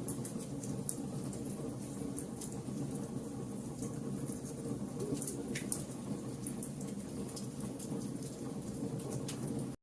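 Fire burning: a steady low rumble with frequent, irregular sharp crackles and pops.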